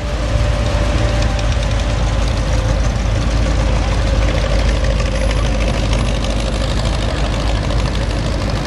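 The Batmobile's engine idling steadily, with a fast, even pulse from the exhaust.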